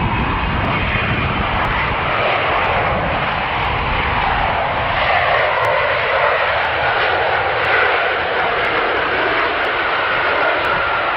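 Boeing 747 jet engines running: a loud, steady rush with a high whine that comes up about halfway through.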